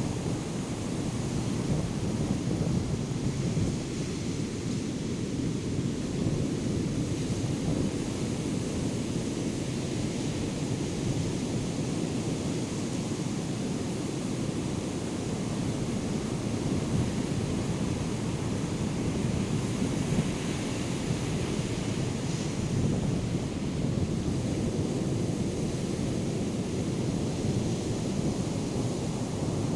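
Ocean surf from Hurricane Erin's swell breaking and washing in as a steady, unbroken noise, with wind buffeting the microphone.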